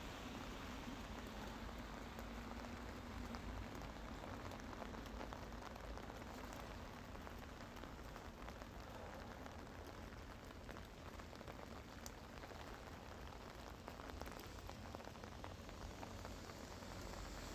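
Rain falling steadily, with many small drops ticking on a surface. The sound is faint and even.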